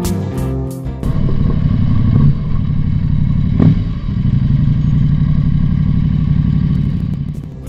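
Motorcycle engine running steadily while riding, with short dips in level about two and four seconds in.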